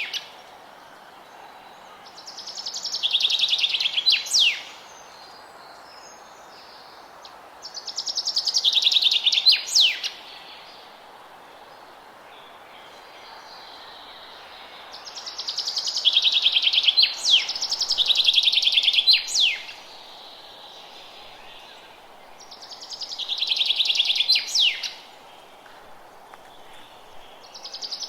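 A songbird repeats its song four times, about every six to seven seconds. Each phrase is a fast trill high in pitch that swells and ends in a couple of sharp downward-sweeping notes. A steady faint hiss of forest background runs between the phrases.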